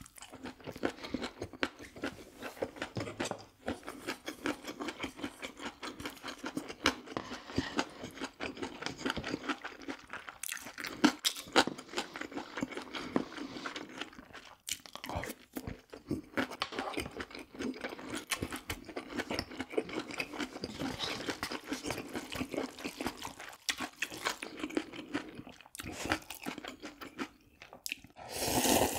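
Close-miked chewing and crunching of food, a steady run of small wet clicks and crackles from the mouth while eating. A louder, brief noisy sound comes near the end.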